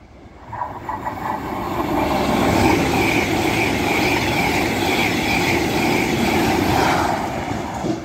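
LNER Azuma high-speed train passing through non-stop at speed: a rushing roar of wheels on rail and air that swells within the first second or two, stays loud for several seconds with a wavering high whine, then fades as the train runs away down the line.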